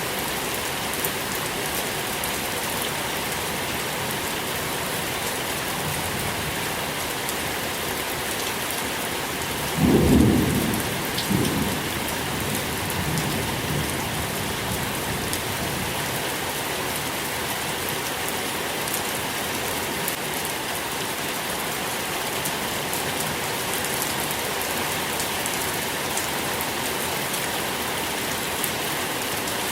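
Steady rain falling, with a low rumble of thunder about a third of the way in that swells twice in quick succession and fades over a few seconds.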